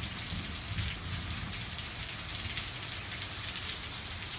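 Rain falling steadily, an even downpour pattering on surfaces.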